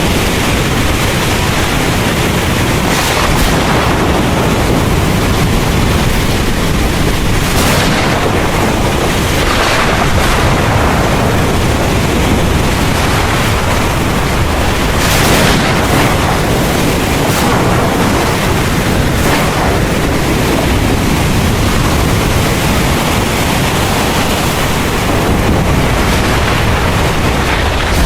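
Heavy rain pouring steadily under a deep, continuous thunder rumble, with several brief louder swells, the strongest about halfway through.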